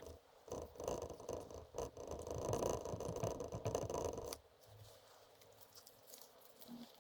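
Scraping and rustling handling noise with scattered clicks, stopping abruptly about four seconds in and leaving a faint background hum.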